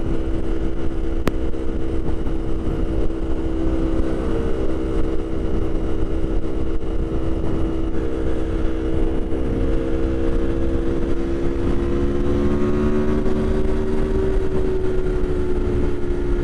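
Aprilia Tuono 1100's V4 engine running at a steady cruise under low wind rumble, heard from inside the rider's helmet. The engine pitch rises a little about three-quarters of the way through, then eases back. A single sharp click sounds about a second in.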